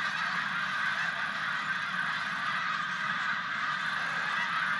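A large flock of birds calling together: a steady, dense din of many overlapping calls.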